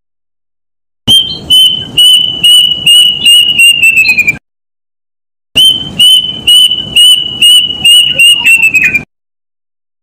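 A bird's whistled call given twice: each a run of about a dozen short, high whistles on one pitch that speed up and drop slightly in pitch at the end. The recording is loud and distorted.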